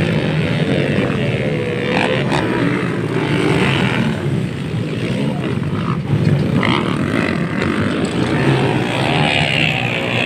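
Motocross dirt bike engines running hard, their revs rising and falling over and over, with a few sharp cracks.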